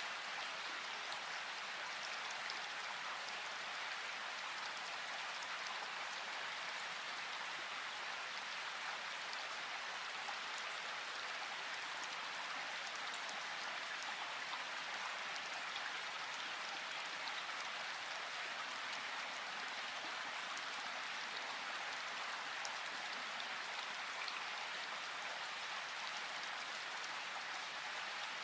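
Steady, even rush of flowing river water, with faint scattered drips and splashes.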